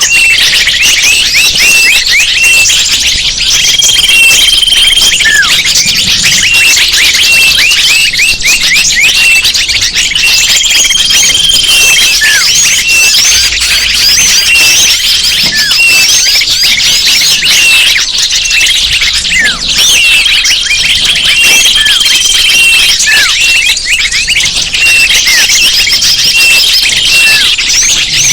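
Bird-lure recording: a dense chorus of many small birds chirping and twittering high and fast, with short falling notes and a steady high whistled note about a second long that comes back every few seconds.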